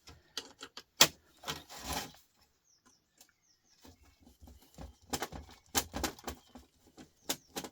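Scattered clicks and knocks of hand tools and loose metal and plastic parts being handled while an old record player is taken apart, with a short quiet spell in the middle.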